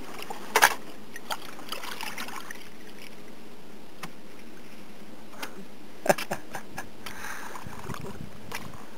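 A few sharp knocks and clatters of camping and kayak gear being handled, with two louder knocks about half a second in and about six seconds in.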